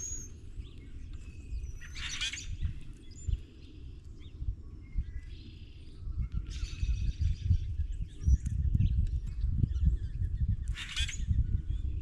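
Birds calling: two harsh, drawn-out calls, one about two seconds in and one near the end, with small chirps between. Under them, low knocking and rustling close to the microphone gets busier after about six seconds.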